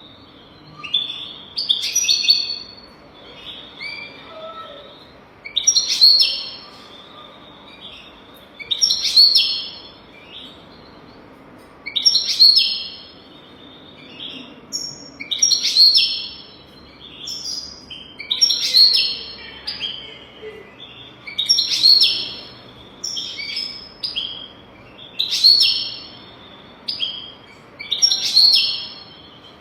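European goldfinch singing: about nine bright, twittering song phrases, one roughly every three seconds, with fainter notes in between.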